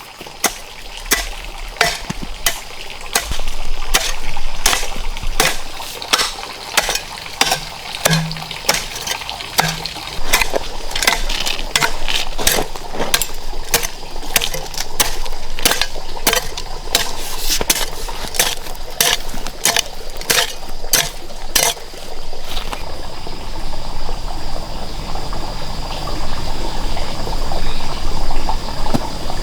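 A quick series of sharp knocks, about one and a half a second, over a steady watery hiss. The knocks stop a few seconds before the end, leaving only the steady hiss.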